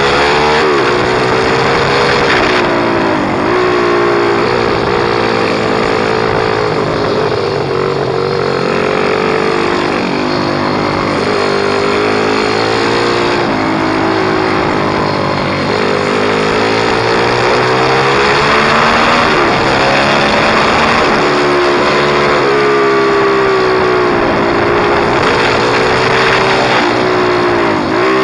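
Pit bike engine revving hard and easing off over and over, its pitch climbing and then dropping every few seconds as the bike accelerates and slows.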